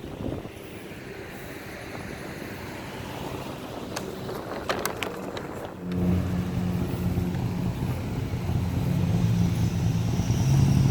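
Wind on the microphone with a few sharp clicks, then about six seconds in a motor vehicle's engine comes in suddenly and close, a low steady hum that grows louder toward the end.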